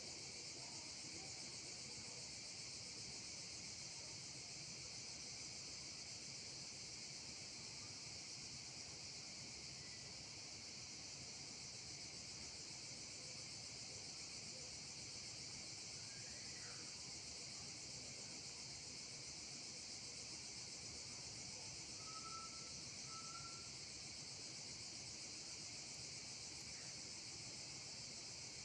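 Steady, high-pitched insect chorus with an even, unbroken chirring, and two short, faint whistled notes about three-quarters of the way through.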